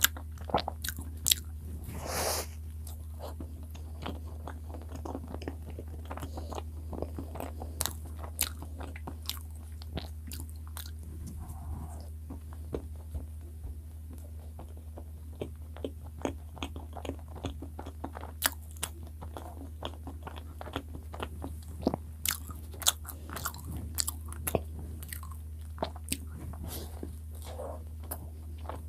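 Close-miked chewing of soft cream-filled bread, with bites, many short sharp mouth clicks and smacks, over a steady low hum.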